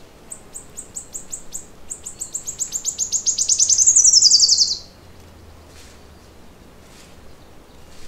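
A songbird sings one song: a run of high, evenly spaced notes that speeds up into a fast trill, growing louder and falling in pitch before it stops abruptly about five seconds in. A few faint chips follow.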